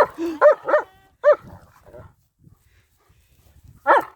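Dog giving short, high-pitched barks: a quick run of four in the first second and a half, then another near the end.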